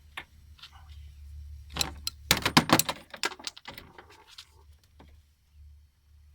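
A quick flurry of metallic clicks and rattles from small parts and hand tools being handled, loudest in the middle, over a steady low hum.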